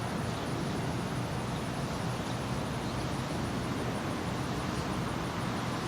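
Distant jet aircraft rumbling overhead out of sight, a steady low rumble with no clear rise or fall.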